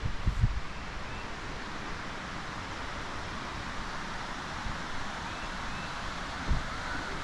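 Steady rushing of river water, with a couple of low thumps, one near the start and one about six and a half seconds in.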